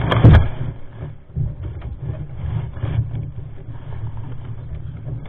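A vehicle engine idling with a low, uneven rumble, and a sharp knock about a third of a second in.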